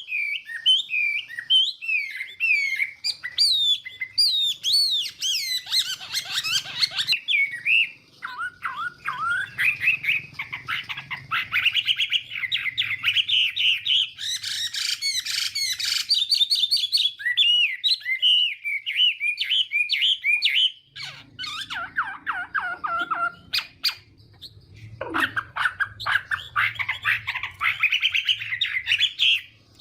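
Chinese hwamei (hoạ mi) singing a long, varied song of rapid whistled phrases, trills and sweeps, breaking off briefly a few times, in the fighting-song style that keepers train these birds for.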